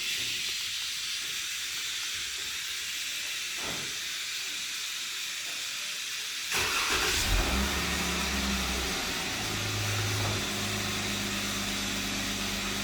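2017 Jeep Wrangler Rubicon engine started by a remote-start alarm: over a steady hiss a faint click comes first, then about six and a half seconds in the starter cranks briefly, the engine catches, and it settles into a steady idle.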